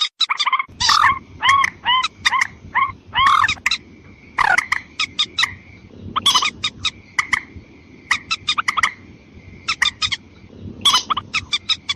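Lure-call recording of mandar batu rails, female and male: rapid runs of sharp clicking notes and short arched calls, with a thin steady whistle-like tone running under the middle stretch.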